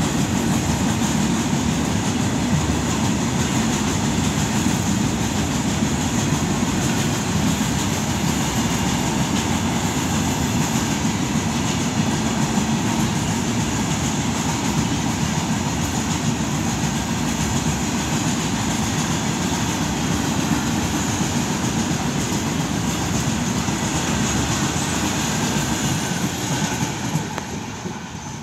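Indian Railways freight train hauled by a WAG-9 electric locomotive rolling past, its wheels running on the rails in a steady, loud rumble. The noise dies away about 27 seconds in as the train clears.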